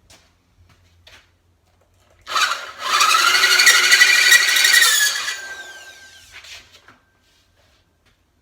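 Electric drill boring a hole through a steel plate, the bit squealing in the metal for about three seconds, then the motor winding down with a falling whine.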